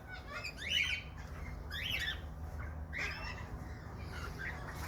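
Captive parrots giving a few short, sharp squawks, one about every second in the first three seconds.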